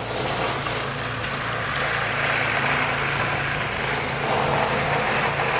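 Snowblower's small engine running steadily, a constant hum with a hiss above it.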